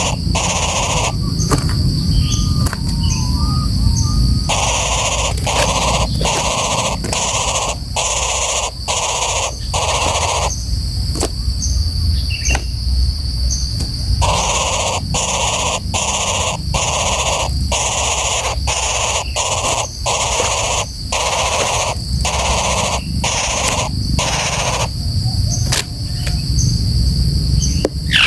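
Woodpecker calling in runs of harsh, evenly spaced notes, about one and a half a second, broken by short pauses. A low rumble of wind or handling runs underneath.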